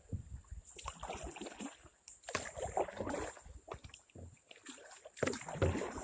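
Kayak paddle strokes in the water: about three splashy bursts a second or so long, with dripping between them.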